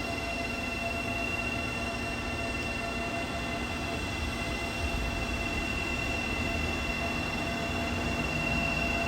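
Steady mechanical hum and whine, with a constant high tone over a low drone, unchanging throughout.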